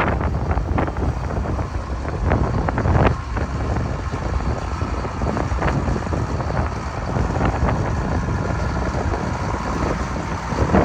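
Case IH 7140 Magnum tractor's diesel engine running steadily, with wind buffeting the microphone.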